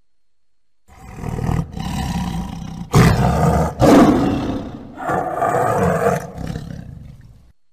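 Tiger roaring: about six rough roars in quick succession after a second of silence. The loudest come about three and four seconds in, and the last ones fade away.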